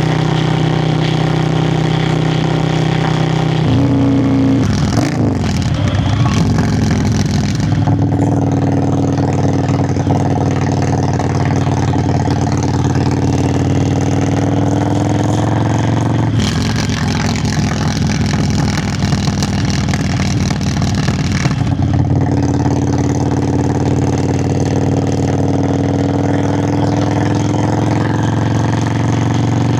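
Yamaha Virago XV535's air-cooled V-twin exhaust under way, heard from the bike: the engine note shifts several times, about 4, 8, 16 and 22 seconds in, and climbs slowly between those changes as the bike gathers speed.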